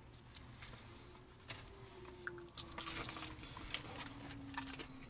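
Close-up chewing of a crispy fried chicken tender: irregular crunches and wet mouth clicks, busiest about three seconds in.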